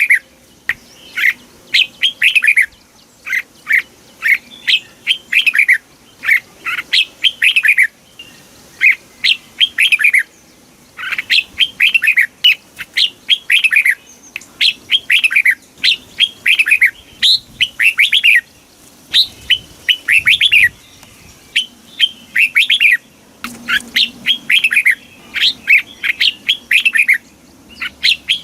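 Red-whiskered bulbul singing: short, bright phrases of quick down-slurred whistled notes, repeated one after another with brief pauses between them.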